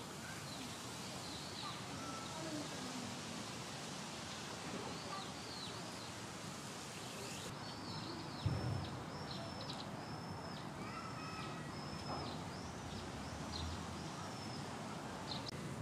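Small birds calling in series of short, high, repeated chirps over steady outdoor background noise, with one dull low thump about eight and a half seconds in.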